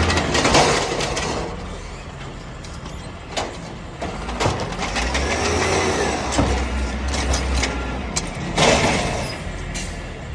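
Refuse truck's diesel engine hard-revved on a recycling route: a low rumble that eases off, then builds again about four seconds in. Sharp knocks and clatter come through, and a loud burst of hiss sounds near the end.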